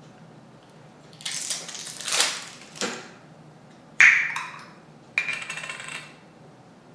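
Tableware being handled on a table: a stretch of scraping and rattling, then a sharp ringing clink about four seconds in and a lighter ringing clink a second later.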